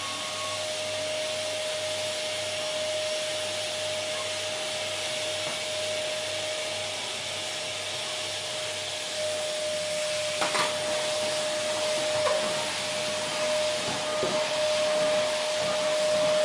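Vacuum cleaner running steadily, a rushing hiss with a steady high motor whine. In the second half it grows louder and uneven, with a few knocks.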